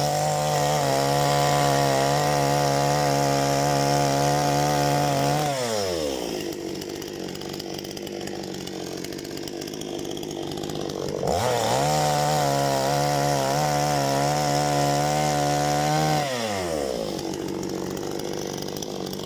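Parma BP-058 chainsaw revved to full throttle twice, each time for about five seconds, falling back to idle in between, as it cuts firewood.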